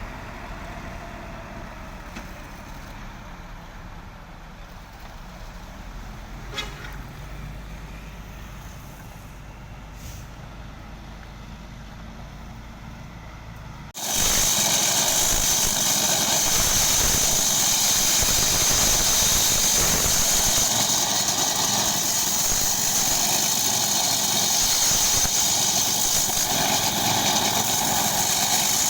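Vehicle engine noise at a road construction site, fairly low at first with a single click. About halfway it changes abruptly to a much louder, steady, hiss-like noise.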